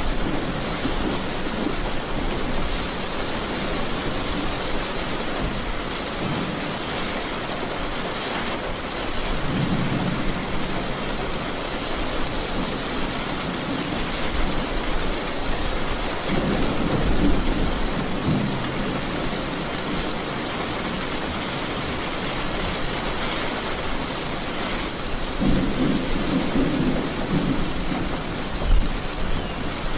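Steady rain falling, with low thunder rumbling in the distance three times: about ten seconds in, again around seventeen seconds, and near the end.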